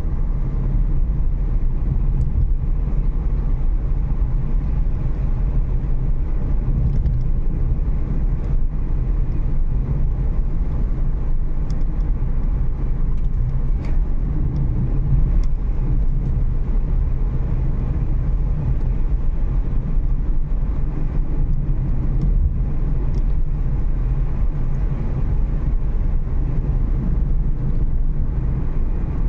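Renault Kiger driving along a road: a steady low rumble of tyre and engine noise heard inside the car.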